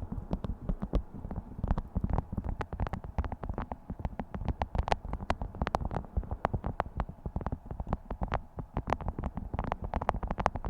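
Beeswax food wrap being crinkled and handled: dense, irregular crackling with a low rumble underneath.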